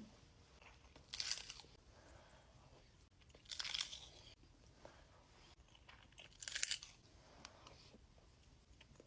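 A person biting and chewing crunchy food, with three louder crunches spaced a couple of seconds apart and softer chewing between them.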